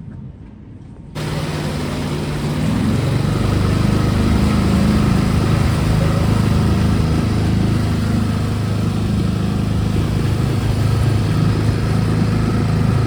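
An engine running steadily at a low, even pitch under a hiss, starting abruptly about a second in.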